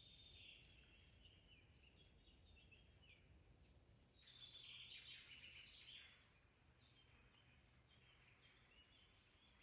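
Faint birdsong in short chirping phrases, loudest from about four to six seconds in, over a quiet natural background.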